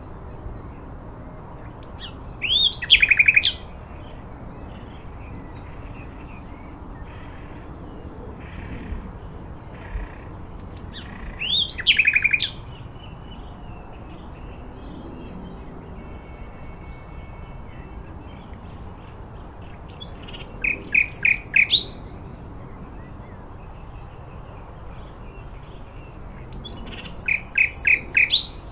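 A songbird singing the same short phrase four times, roughly every eight or nine seconds, each phrase a quick run of high notes lasting about a second. Faint steady low background noise lies under the song.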